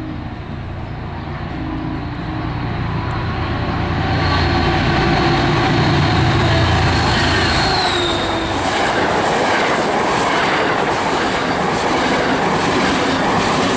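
MBTA commuter train passing close by: a heavy low rumble from the lead unit swells and passes, with a thin high whine that drops in pitch about eight seconds in. After that the bilevel coaches roll by with loud wheel clatter and rattle.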